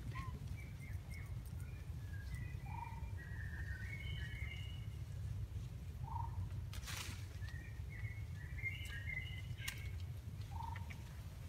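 Birds chirping and twittering in short clusters, with a short lower call repeating every few seconds, over a steady low rumble.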